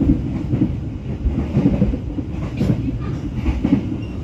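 Passenger train running, heard from inside a carriage: a steady low rumble of wheels on the rails with uneven clatter on top.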